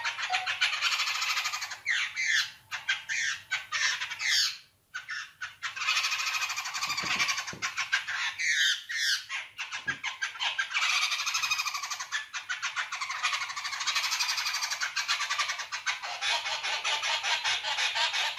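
A group of small birds chirping and chattering rapidly and continuously, with a few quick up-and-down calls mixed in and a brief lull about five seconds in.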